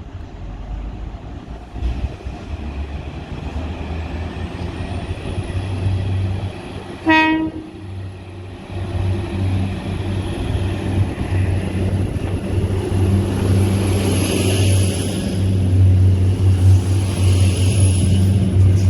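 Diesel multiple unit's underfloor engine running, its drone getting louder as the train draws closer, with one short horn toot about seven seconds in. A thin high whine rises from about four seconds in and holds.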